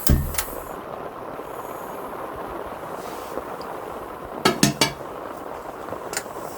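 Steady rain falling on a camp tent or tarp. A heavy thump comes right at the start, followed by a click, then three quick clinks or knocks of camp gear about four and a half seconds in, and one more near the end.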